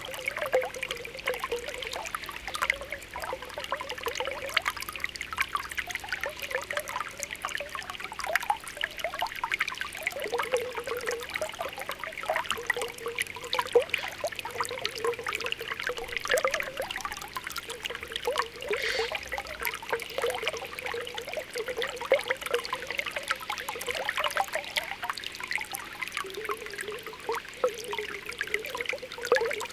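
Spring water welling up through the ground, with a steady run of small popping and gurgling bubbles.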